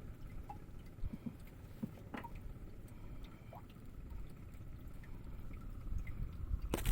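Water lapping and dripping against a small fishing boat, with scattered small drips and one sharp knock near the end.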